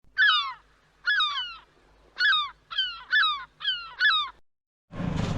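A bird calling: seven loud calls, each sliding down in pitch, in about four seconds, ending abruptly about four seconds in.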